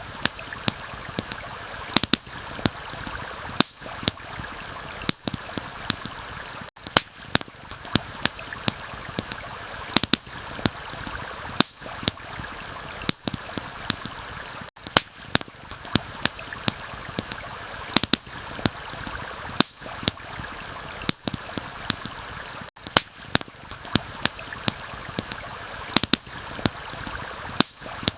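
Campfire crackling and popping with frequent, irregular sharp snaps over a steady rush of flowing stream water.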